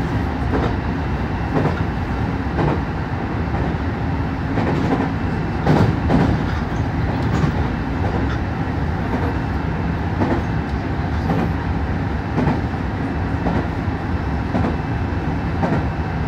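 Nankai 8000 series electric train running at speed, heard from inside the leading car: a steady running rumble with the wheels knocking over rail joints about once a second, the loudest knock about six seconds in.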